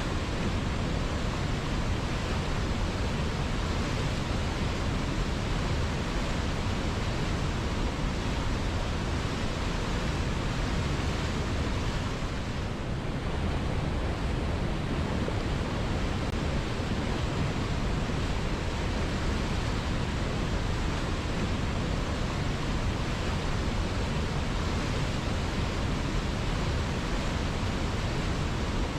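Flowing river: a steady, even rush of water.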